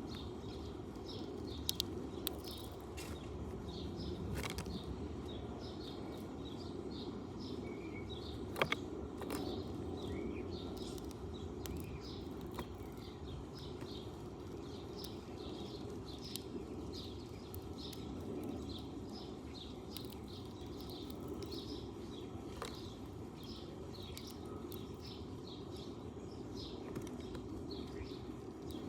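Sparrow chirping over and over, a few short high chirps a second, over a steady low outdoor rumble. A few sharp clicks stand out, the loudest about nine seconds in.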